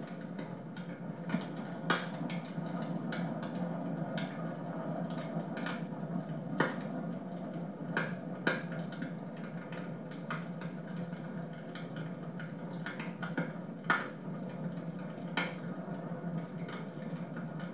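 Wood fire crackling in a home fireplace: a steady rushing hiss of the flames with irregular sharp pops from the burning logs, several of them standing out.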